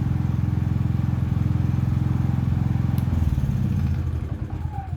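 Predator 3500 generator's small single-cylinder engine running steadily, now that a new ignition igniter module has restored its spark; about three seconds in it is shut off and runs down, its whine falling as it spins to a stop.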